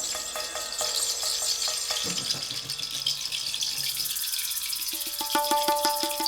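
Hand percussion: a fast, continuous rattle of shaken jingles, with short pitched drum strokes near the start and a quick run of ringing, tuned drum strokes joining about five seconds in.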